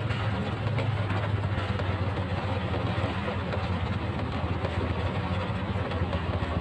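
Motorcycle engine running at a steady pace while riding, with an even rush of wind and road noise over it.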